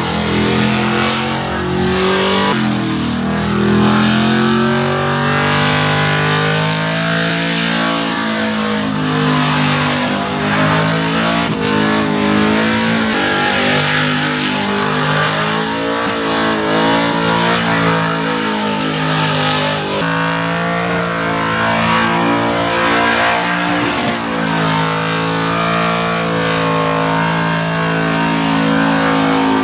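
A car doing a burnout: its engine is held at high revs, rising and falling in pitch, while the drive tyres spin against the pavement.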